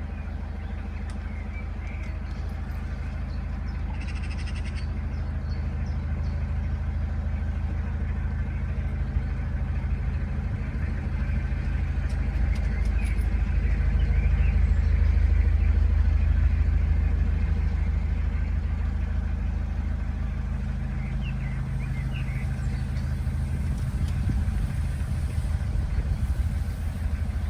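Narrowboat engine running steadily at dead slow, a deep drone that swells about halfway through and eases again.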